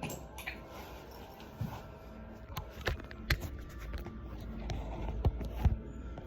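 Irregular knocks and clicks, about half a dozen over a few seconds, over a low rumble: handling sounds of the front panel of a Samsung washer-dryer being taken apart.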